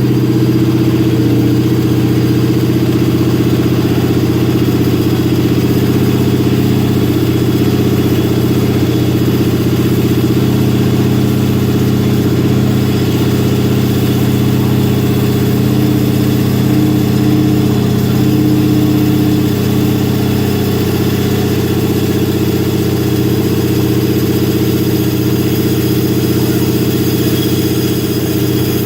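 Twin-turbocharged Ford Coyote 5.0 L V8 running steadily at idle, its pitch holding without revving.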